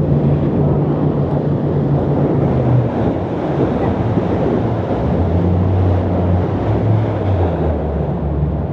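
Jet boat engine running under the steady rush of water and wind buffeting the microphone; about halfway through the engine note drops lower.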